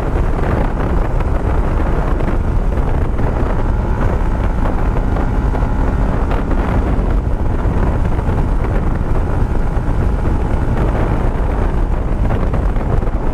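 Steady wind buffeting on the microphone while riding a Yamaha Sniper 150 motorcycle, with its single-cylinder engine running underneath at a constant pace.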